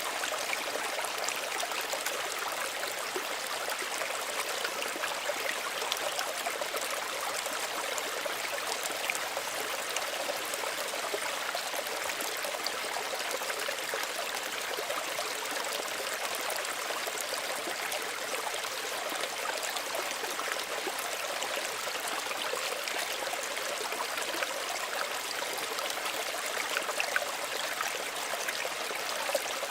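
Small stream of running water flowing and trickling steadily, with many small splashes and plinks.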